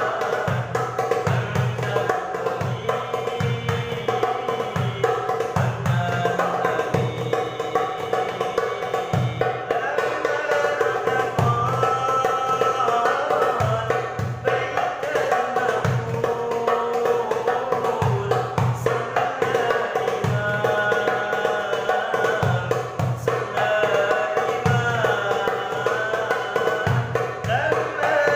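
Darbuka drum beating a steady rhythm of deep and sharp strokes under a melodious voice singing an Arabic devotional song (sholawat).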